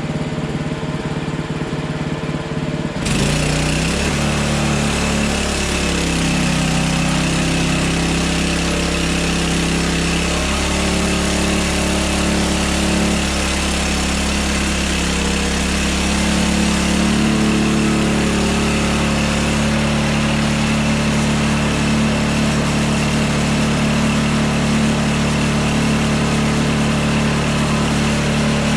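Hudson Hunter band sawmill's engine idling, then throttled up about three seconds in and running steadily at speed with a high whine, its note shifting slightly a few times.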